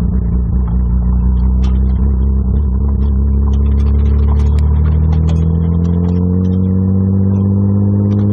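Exhaust of a Nissan R32 Skyline GT-R's twin-turbo straight-six, heard right at the tailpipe, running at low revs. It holds steady, then about five seconds in the pitch rises slowly as the car gently accelerates.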